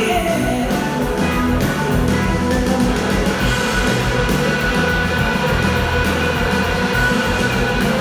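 Live rock band playing an instrumental passage after a sung line, with electric guitar to the fore over steady bass and drums.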